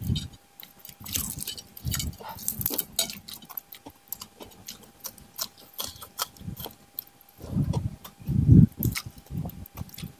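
People eating at the table: chewing and smacking on fried catfish and rice, with frequent short clinks of spoons against plates and the stone sambal bowl. The chewing is loudest between about seven and a half and nine seconds in.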